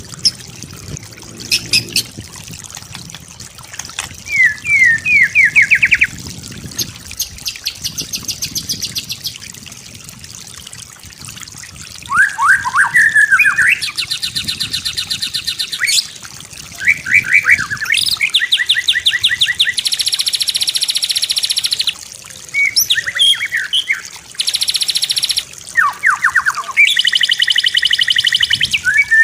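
White-rumped shama (murai batu) singing a full, varied song: short rising whistled sweeps alternating with long, fast, rattling trills a second or two each.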